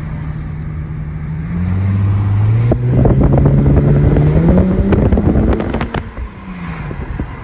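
Infiniti G35xs 3.5-litre V6 through an ISR single-exit 3-inch catback exhaust, accelerating hard in a full-throttle pull. The engine note climbs and gets louder, with a raspy edge at its peak, then eases off and drops in pitch about six seconds in as the throttle is lifted.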